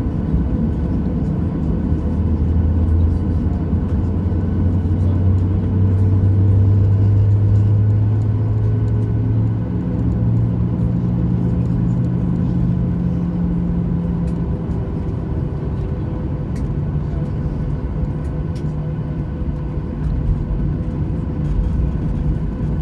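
Inside the cabin of a Boeing 737-800, its CFM56-7B turbofan engines running under a loud, steady rumble. A low hum rises slowly in pitch over the first several seconds, then gives way to a higher hum about halfway through.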